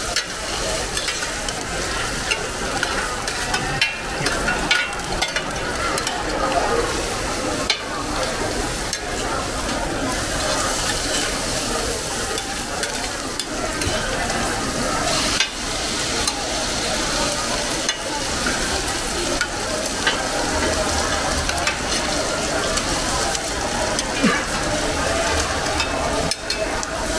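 Mussels and egg batter for hoy tod sizzling and frying in hot oil on a large flat pan, a steady hiss. Metal spatulas clink and scrape against the pan now and then as the omelets are turned.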